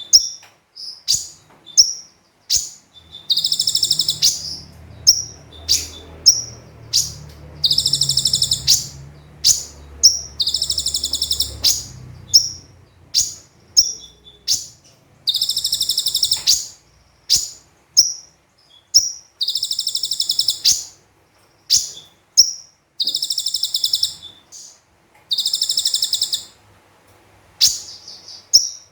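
Konin (a sunbird) singing: rapid, high, buzzy trills about a second long, coming every couple of seconds, with short sharp chip notes in between.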